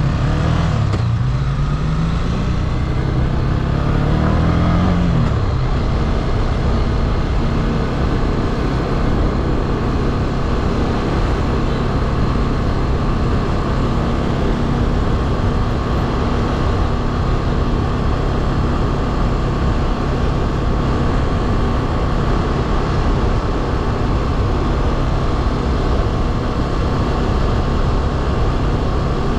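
Motorcycle engine under way, its pitch rising and falling a couple of times in the first five seconds, then holding steady at a constant cruising speed.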